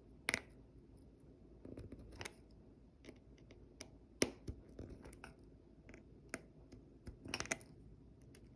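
Small precision screwdriver working tiny screws into an opened iPhone 11 Pro: a few scattered faint clicks and light scratches of metal tool on screw and phone frame.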